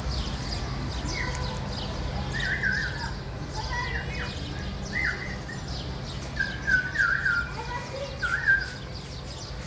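Songbirds chirping and warbling in short repeated phrases, denser and louder in the second half, over a steady low hum.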